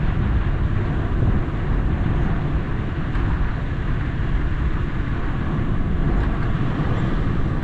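Toyota FJ Cruiser's 4.0-litre V6 and tyres, driving on a muddy, snowy dirt trail: a steady low rumble.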